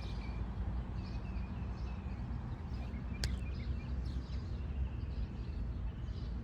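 Outdoor neighborhood ambience: a steady low rumble with faint bird chirps, and a single sharp click about three seconds in.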